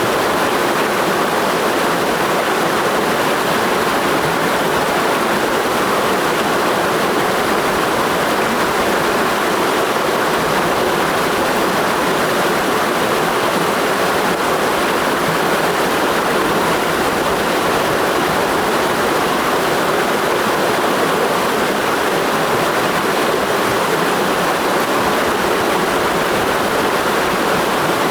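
Mountain stream rushing steadily over rocks: a constant even rush of water with no breaks.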